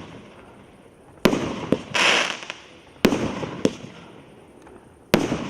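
Maxsem SUPRISE MC108 firework battery firing: three sharp bangs about two seconds apart, each followed by a smaller crack about half a second later, with a short hiss about two seconds in.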